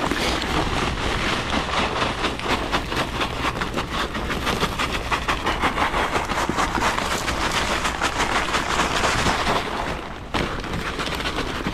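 Salt spreader flinging rock salt onto pavement: a dense, rapid run of tiny ticks over wind noise, which drops off about ten seconds in.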